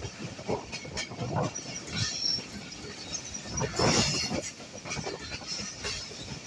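Passenger coaches of a moving train clattering over the rails, with irregular knocks and a louder burst about four seconds in.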